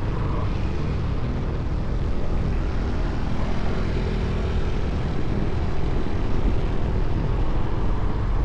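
Motorcycle running along the road, its engine drone mixed with steady wind rumble on the microphone.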